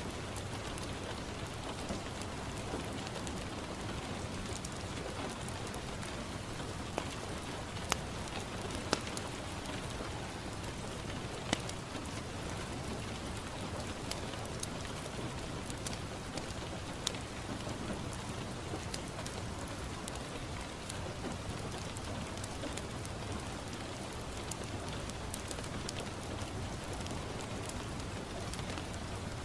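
Steady rain falling on a window pane, an even hiss of drops with a few sharp, louder clicks standing out now and then.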